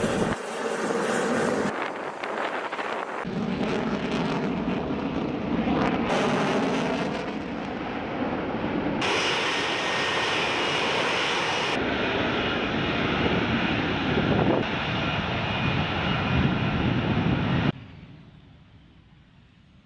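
Fighter jet engines running loud, the noise changing character abruptly several times. Near the end it drops suddenly and fades away.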